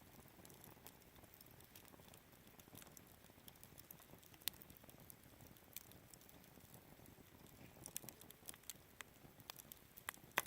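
Wood campfire in a Picogrill 398 fire stand crackling quietly, with scattered sharp pops, the loudest one near the end.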